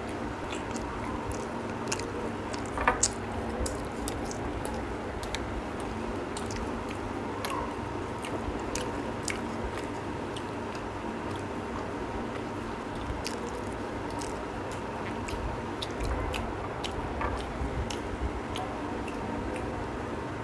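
Close-up eating sounds of two people chewing roti and egg curry: wet chewing with frequent short lip-smacking clicks, over a steady faint hum. A single sharper click about three seconds in is the loudest moment.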